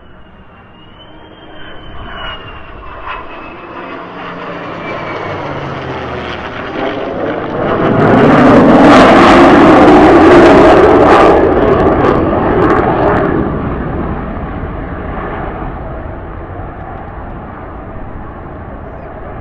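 An F-35A Lightning II and a P-51 Mustang flying over together in formation, low and close. The engine noise builds for several seconds, peaks loudly about eight to twelve seconds in with a falling pitch as they pass, then fades away.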